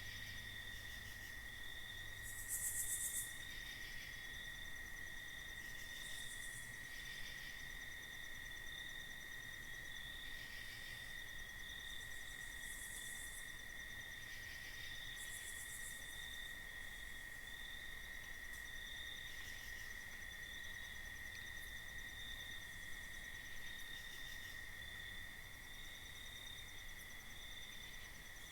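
Night insect chorus, crickets trilling steadily on one high pitch. A brief, louder, very high hissing buzz comes about three seconds in, and a few fainter ones follow later.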